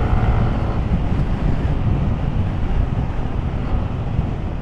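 Steady wind rush buffeting an action camera's microphone while riding a motorcycle, with road and engine noise underneath.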